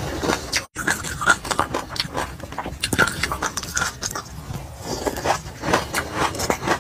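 Close-up crunching and chewing of a mouthful of sesame seeds, with a metal spoon clinking and scraping in the jar. The sound cuts out sharply for a moment under a second in.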